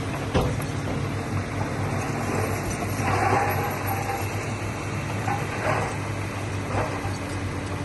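Diesel engine of heavy earthmoving machinery running steadily, with a knock just under half a second in and a few short squeaks later on.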